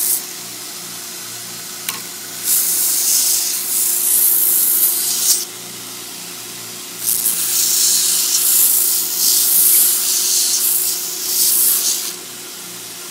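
Home-built 2x72 belt grinder, driven by a 3/4 horsepower bench grinder motor, running with a steady hum while a workpiece is pressed to the belt twice. The sanding hiss lasts about three seconds and then about five.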